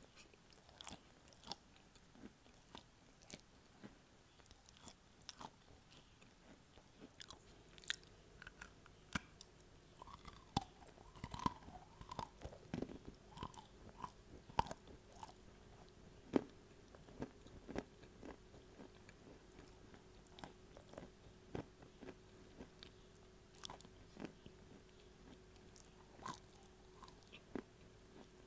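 Dry edible clay being bitten and chewed close to a handheld earphone microphone: a steady run of sharp, irregular crunches as pieces snap off and are ground between the teeth.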